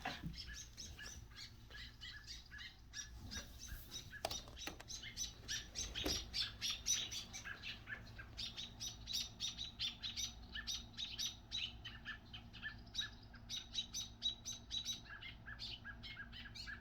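Small birds chirping rapidly and without a break, several short sharp chirps a second. These are agitated alarm calls from birds upset over a grounded baby bird.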